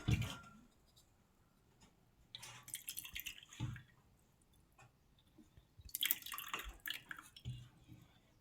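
Water splashing and dripping during wet cleaning in a small tiled room, in three short bursts with quiet between.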